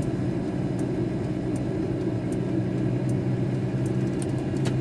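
VW T4 Transporter's diesel engine and road noise heard from inside the cab while driving: a steady low drone.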